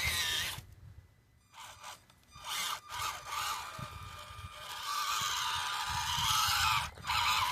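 Axial SCX24 C10 micro RC crawler driving: its small electric motor and gearbox whine in stop-start bursts, the pitch wavering up and down with the throttle.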